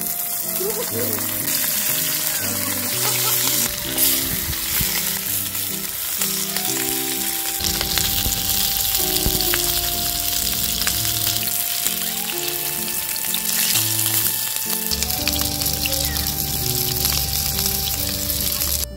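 Food sizzling as it fries in a hot pan: a steady sizzle with scattered crackles, under background music.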